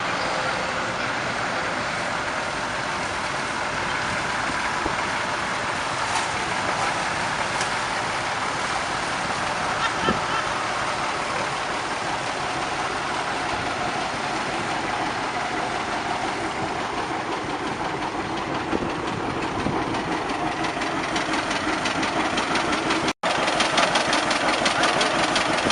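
Vintage tractor engines running. Near the end, after a sudden break, a closer engine with an even, rapid firing beat takes over.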